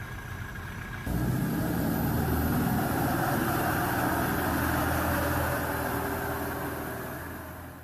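Heavy KrAZ truck's diesel engine running under load. It jumps abruptly louder about a second in, holds steady, then fades slowly near the end.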